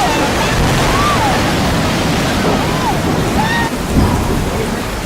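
Loud, steady rushing noise like surf, with a few short sliding voice-like tones over it.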